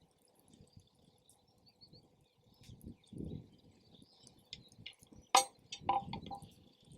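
Wood campfire crackling, with scattered sharp pops, the loudest about five seconds in and a quick cluster just after. Wind gusts buffet the microphone as low rumbles twice.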